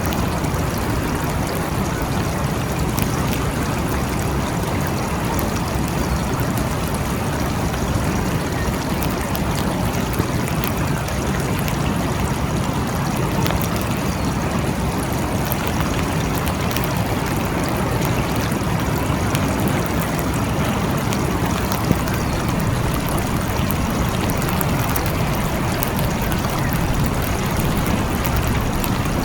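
Steady rain falling, an even hiss with scattered sharp drop ticks and two brief louder clicks.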